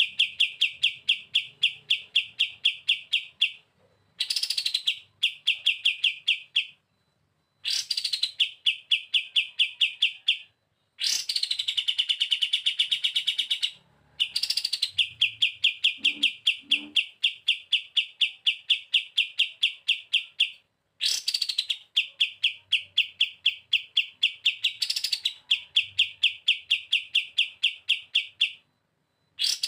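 Kapas tembak songbird singing its fast 'bren' trill: phrases of rapid, evenly repeated buzzy notes, each phrase opening with a quick downward-sweeping note, repeated over and over with short pauses between them.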